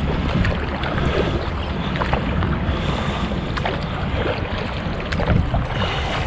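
Jet ski engine running steadily as it moves across the water, with water noise and wind buffeting the microphone.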